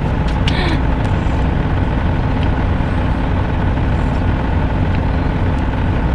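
A parked truck's engine idling steadily, heard from inside the cab, with a few short clicks in the first second.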